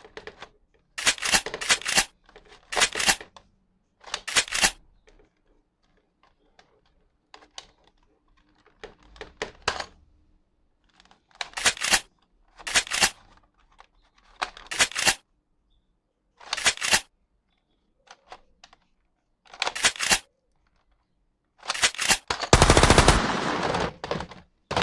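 Toy gun gunfire sounds in short rapid bursts, each under half a second, roughly every one to two seconds with quiet gaps between. A longer, louder burst of about two seconds comes near the end.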